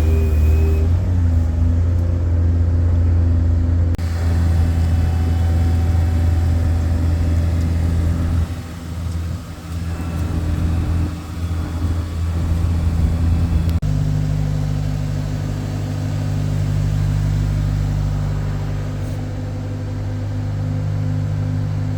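Truck engine running steadily under way, a low even drone with road noise, changing abruptly a few times as clips are cut together; after about 14 seconds the engine note sits at a different steady pitch.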